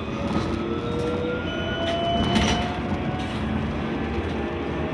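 Electric C Class tram running, heard from inside: a steady rumble of wheels on rail with the traction motors' whine rising in pitch as the tram gathers speed, and a few short knocks about two seconds in.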